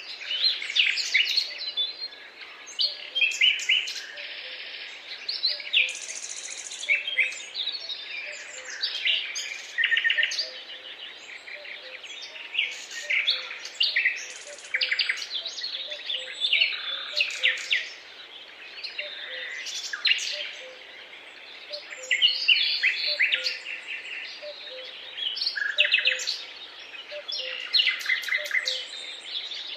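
Several songbirds singing and chirping at once, with overlapping quick trills, whistles and chirps that rise and fall in strength throughout.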